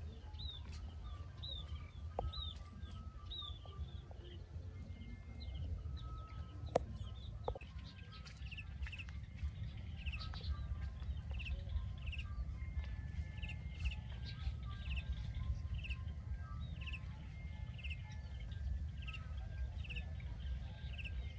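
Outdoor ambience with a bird repeating a short, high, falling chirp, a few at first and then about one and a half a second from about nine seconds in, over a steady low rumble.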